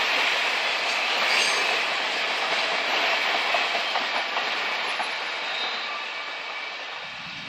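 Covered hopper cars of a freight grain train rolling on steel rails, a steady wheel rumble with a few faint clicks that fades steadily as the end of the train moves away.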